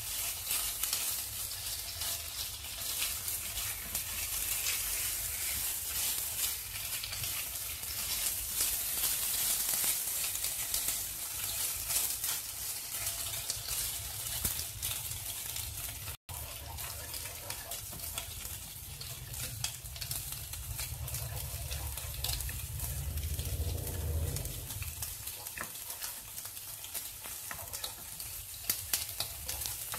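Prawns sizzling in oil in a nonstick wok as a spatula stirs and turns them: a steady crackling hiss with the scrape of the spatula, over a low rumble. The sound cuts out for a split second about halfway through.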